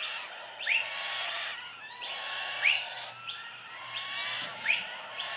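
Birds calling in an aviary: a string of short, rising chirps, about one a second.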